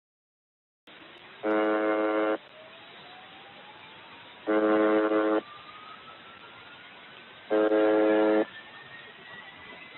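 UVB-76 'Buzzer' shortwave station received over the radio: a harsh buzz tone just under a second long, repeating three times about every three seconds over receiver hiss. A thin whistle rises slowly in pitch underneath. The audio cuts in suddenly about a second in.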